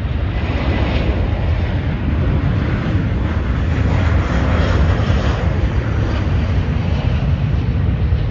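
Jet airliner passing, a broad engine roar over a steady low rumble that swells through the first half and eases toward the end.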